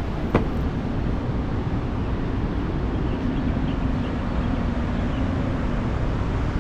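Steady low rumble of city street traffic, with a faint engine hum from about three to six seconds in.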